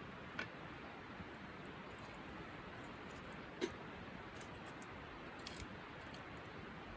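Faint campfire crackling: a steady low hiss with a few sharp, scattered pops.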